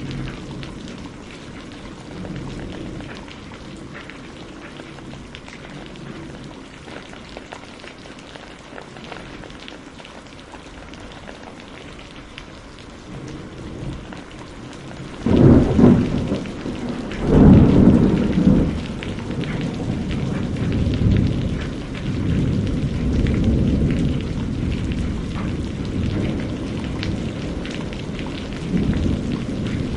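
Steady rain falling, with thunder breaking about halfway through: two loud claps close together, then a long rolling rumble that carries on to the end.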